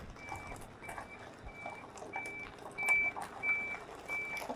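Vehicle reversing alarm beeping steadily, a single high tone about one and a half times a second, as the vehicle backs up under a banksman's directions.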